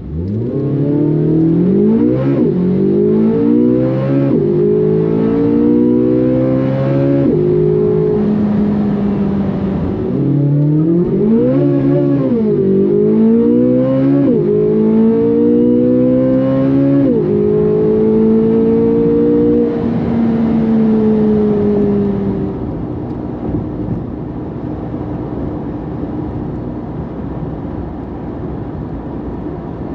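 C8 Corvette Z06's flat-plane-crank V8 through an AWE SwitchPath exhaust, accelerating hard in two pulls. Each pull climbs sharply in pitch and drops at each quick upshift. It then settles to a steady, quieter cruise about two-thirds of the way in.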